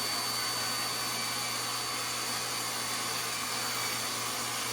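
A table saw and its vacuum dust extraction running steadily, with an even rushing noise and a thin high whine that do not change in pitch.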